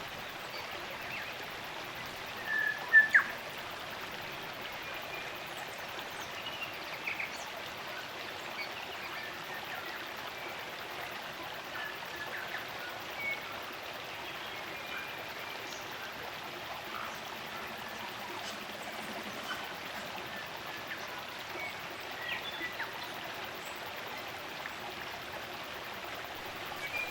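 Running water of a spring-fed stream, an even steady rush. Scattered short bird chirps sound over it, the loudest a couple of sharp calls about three seconds in.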